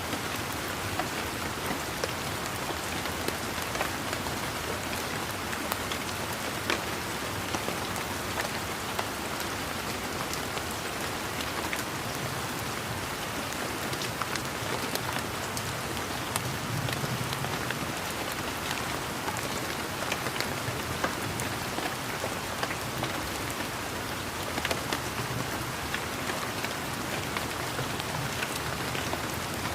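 Steady rain falling in a garden, an even patter with many close drops ticking sharply on leaves and surfaces.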